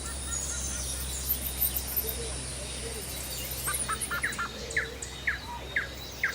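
Bird calls: a series of short, falling chirps, about two a second, starting a little past the middle, over a steady low rumble.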